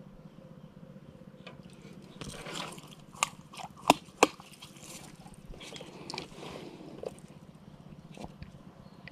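Close handling noises: three sharp clicks or knocks a little after the middle, with some rustling, over a steady low hum.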